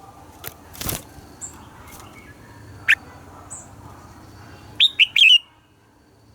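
Red-whiskered bulbul calling: a single rising note about three seconds in, then a quick run of three or four loud, downward-slurred notes near the end. There is a brief burst of noise about a second in.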